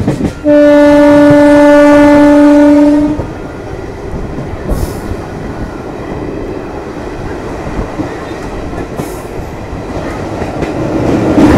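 Train horn sounds one long steady blast of about two and a half seconds, a warning ahead of a level crossing. After it, the passenger train runs on with steady rolling noise and wheel clatter, growing louder near the end as it nears a bridge.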